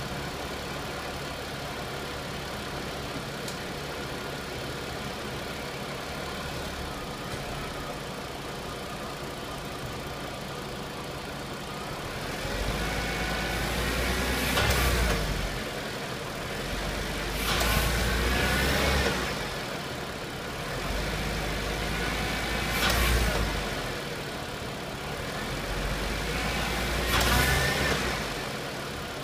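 Supercharged 3.2-litre V6 of a 2003 Mercedes C32 AMG idling steadily, then four times swelling louder for a few seconds with a heavy deep drone and a whine that rises and falls. It is the vibration in gear at very low speed that the owner suspects comes from worn motor mounts.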